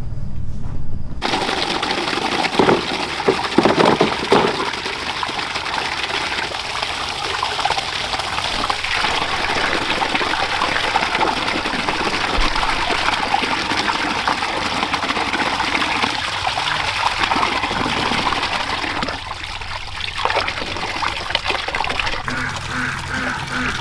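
Water gushing steadily, starting abruptly about a second in, with a few knocks in the first few seconds.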